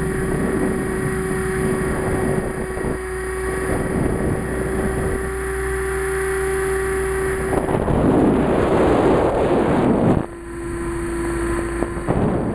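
Electric RC helicopter (Align T-Rex 500) in flight: a steady whine from its motor and rotors, with a louder rushing stretch about eight to ten seconds in. After that the pitch settles slightly lower.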